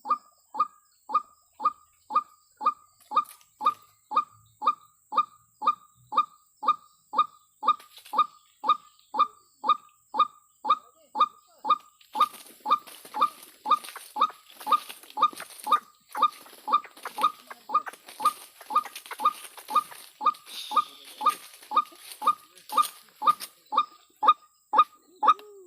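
White-breasted waterhen (ruak-ruak) call: a short, falling note near 1 kHz repeated evenly about twice a second without a break. From about halfway in, insects shrill in pulses behind it.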